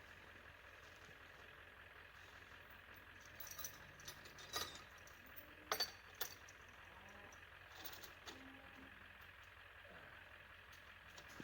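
A handful of faint, separate metallic clinks and rattles, from strap hooks and rigging hardware being handled, over a quiet background.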